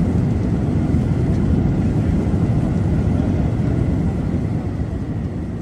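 Jet airliner engines rumbling steadily, beginning to fade near the end.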